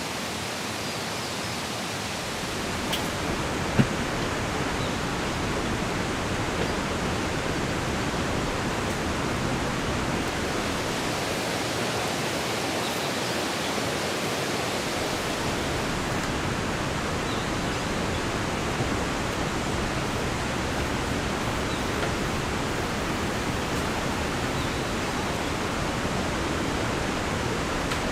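Steady rain, an even hiss with no break, with one sharp tap about four seconds in.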